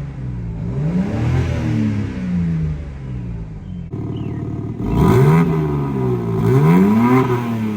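BMW M3 Competition's twin-turbo inline-six revved several times at a standstill in comfort mode, exhaust valves closed, the pitch rising and falling with each blip. It sounds loud but has no crackles or burbles.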